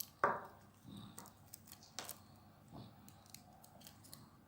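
Faint crafting handling noises as black string is wrapped around a small toy part: scattered light clicks and rustles, with a sharper tap shortly after the start and another about two seconds in.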